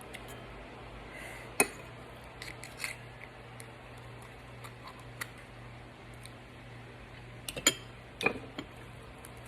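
Scattered sharp clicks and taps of eating utensils against a dish, loudest about a second and a half in and in a quick cluster near the end, over a faint steady low hum.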